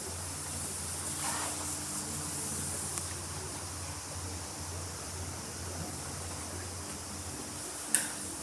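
Suzuki GSX1300R Hayabusa's inline-four engine idling steadily with a low, even hum, and a single sharp click near the end.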